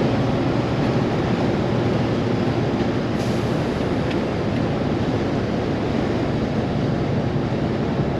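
Semi truck's diesel engine and road noise heard from inside the cab while driving, a steady dense rumble, with a brief hiss about three seconds in.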